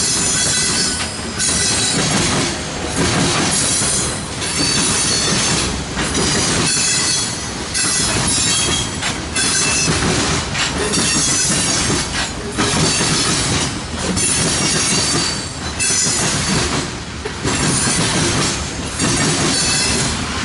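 Freight train cars rolling past close by, the loudness dipping between cars about every one and a half to two seconds, with some wheel squeal.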